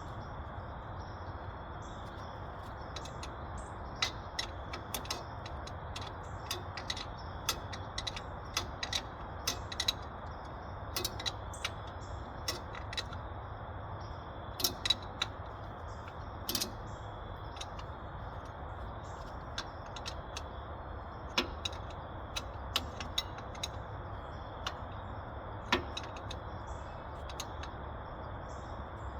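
Hand tools working on the tractor's metal parts: scattered, irregular clicks and clinks of a ratchet and wrenches, with bursts of several in quick succession, over a steady low background.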